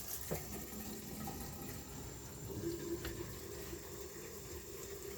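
Bathroom sink faucet running steadily, water pouring into the basin and draining down through a newly fitted P-trap, run as a leak test of the hand-tightened slip joints.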